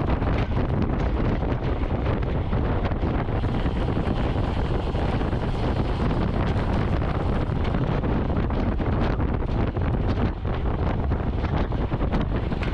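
Steady wind buffeting on the microphone of a camera carried on a racing bicycle at speed, a heavy low rumble with hiss over it.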